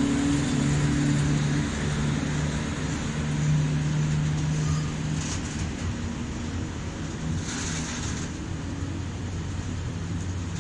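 PKP Cargo ET22 electric freight locomotive departing, with a steady low hum from its traction equipment that fades after about five seconds as it moves past. Then a long train of open wagons loaded with logs rolls by with an even rumble, with two short hisses near the middle.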